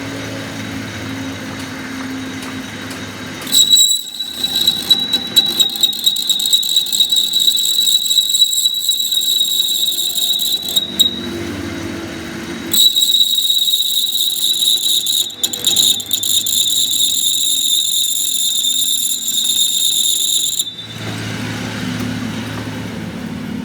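A high-pitched metal-working power tool whining with a crackling, scraping noise as it works metal, in two runs of about seven and eight seconds, with a short pause between. A low steady hum fills the gaps.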